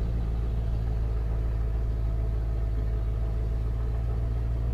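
Rebuilt, carbureted 351 Windsor V8 of a 1991 Ford F250 running steadily at low revs with a deep, even hum as the truck rolls downhill.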